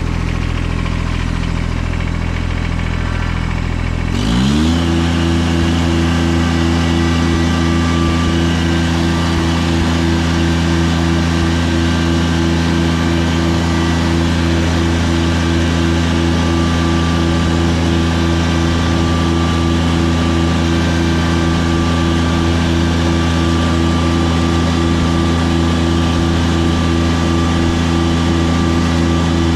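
Tractor engine running at idle, then throttled up about four seconds in, rising smoothly in pitch and holding a steady higher speed while working the snow.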